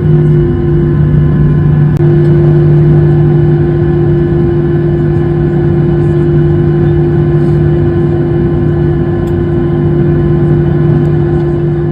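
Airliner engines running steadily: a loud, even drone with a strong low hum and several held tones above it.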